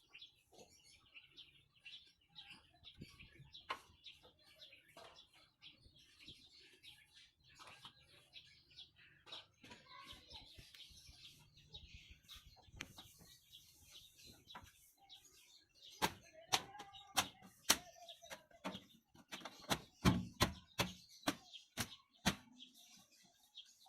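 Birds chirping, with a run of sharp, irregular knocks and clanks in the second half that are the loudest sounds; no engine is running.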